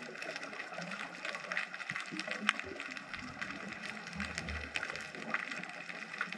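Underwater ambience in the sea: a dense, steady crackle of many small clicks and pops, with a few sharper clicks and a brief low rumble about four seconds in.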